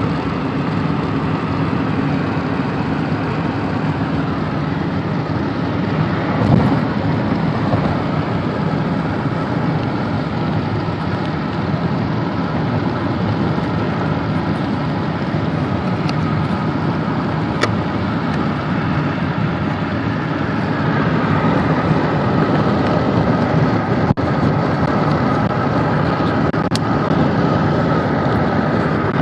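A car driving at a steady speed: a constant mix of tyre noise and engine hum with no change in pitch or speed.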